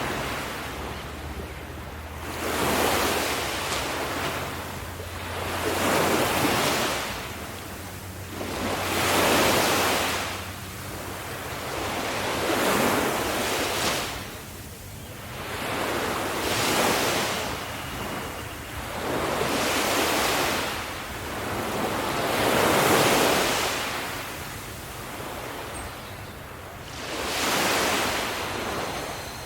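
Ocean waves breaking on the shore, surging in a steady rhythm about every three to four seconds, with the hiss of surf between the breaks.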